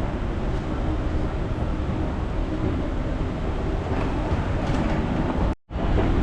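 Steady low rumble of background noise with no clear single source, cutting out completely for a split second about five and a half seconds in.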